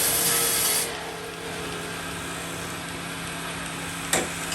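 A saw cutting through wood, with a loud hiss that stops about a second in. The machine then runs on with a steady hum, and a sharp knock comes near the end.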